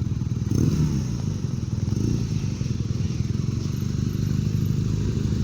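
A group of motorcycle engines running at low revs as the bikes pull away, with a steady rapid pulsing.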